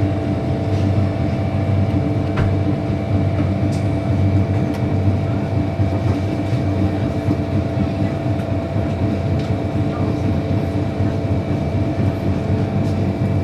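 MTR Disneyland Resort Line M-Train running along the line, a steady hum and whine from its drive holding a constant pitch over wheel-and-rail running noise, with a few faint clicks.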